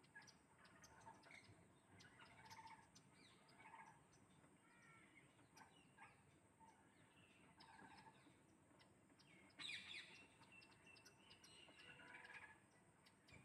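Faint parrot chirps and short calls, scattered and irregular, with a louder burst of calls about ten seconds in.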